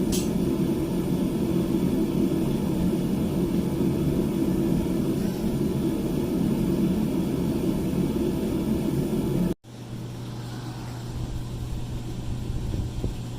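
Blacksmith's forge running with a steady low rushing drone, which cuts off abruptly about ten seconds in, leaving a quieter steady low hum.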